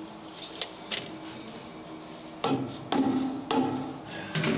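Hammer tapping a truck's rear axle housing to nudge it sideways while centering it between the frame rails: two light taps, then four harder strikes about half a second apart.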